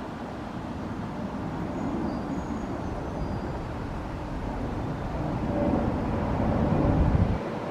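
Wind buffeting the microphone: a low rumble that builds in gusts and drops off sharply near the end.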